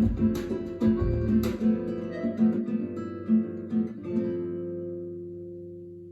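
Acoustic guitar music, fast plucked and strummed in a flamenco-like style, played back through a home hi-fi system; about four seconds in it ends on a chord that rings on and slowly fades away.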